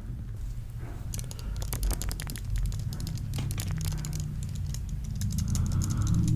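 Quick, irregular crackling and tapping made by feet rubbing and tapping for ASMR, with low steady music tones coming in about four seconds in.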